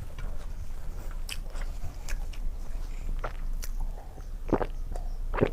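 Close-miked chewing and biting sounds of a person eating a rice meal, with scattered small wet clicks and two louder ones near the end, over a low steady hum.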